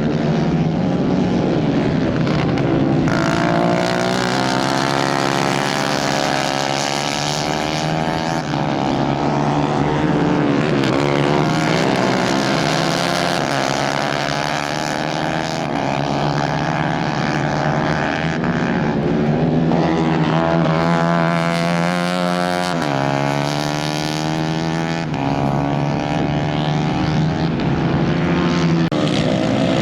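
Several 150 cc racing kart engines running hard together, their pitches rising and falling as the karts accelerate and lift off through the corners.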